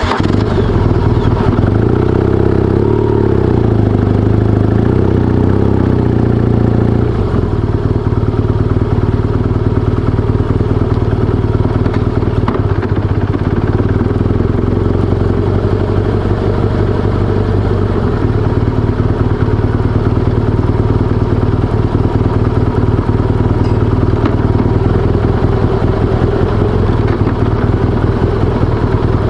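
BMW R1200GS boxer-twin motorcycle engine running. Its note wavers for the first seven seconds or so, then holds steady.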